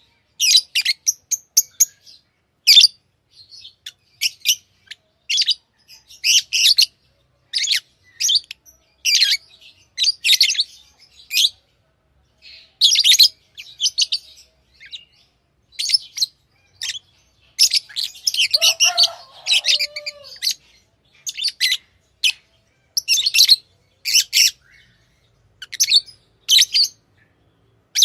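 Pet lovebirds chirping: short shrill chirps in quick irregular runs with brief pauses. About two-thirds of the way through, a lower wavering call sounds beneath the chirps for a couple of seconds.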